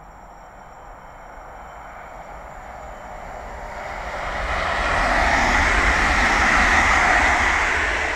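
A train passing at speed: a rushing noise of wheels and air with a low rumble that builds steadily, peaks about five to seven seconds in, and begins to fade near the end.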